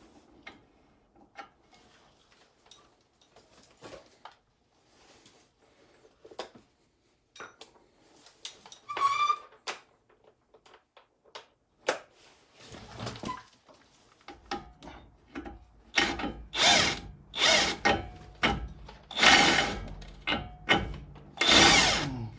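A power tool fitted with an 18 mm socket runs in short repeated bursts, each about half a second long, driving on the tie rod end nut. Before that there are scattered light clicks of tools being handled and one brief rising whirr.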